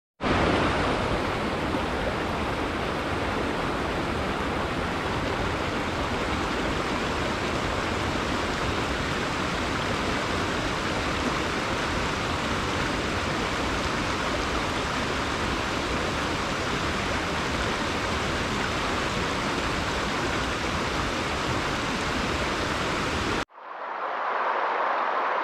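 Steady rushing water, an even full-range hiss without swells, that cuts off abruptly near the end; a duller, softer water noise then fades in.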